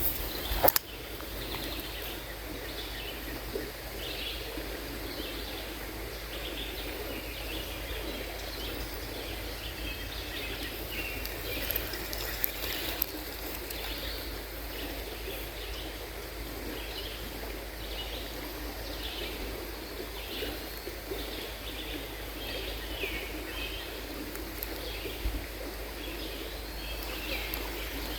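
River water running steadily, with a bird chirping over and over in short calls above it. A single sharp knock sounds just after the start.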